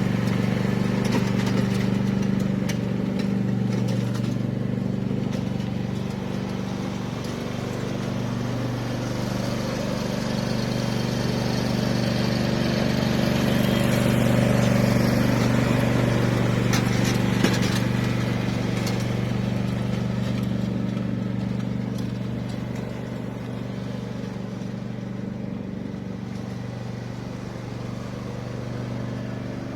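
An engine running steadily at an even speed, slowly growing louder and softer, with a few sharp knocks or clicks.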